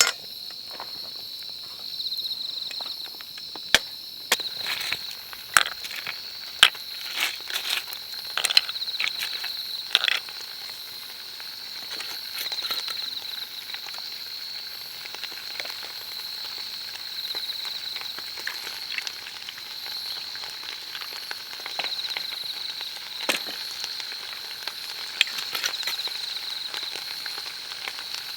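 Fire crackling in sharp, irregular pops, thickest in the first ten seconds and sparser after, over a steady high chirping of insects.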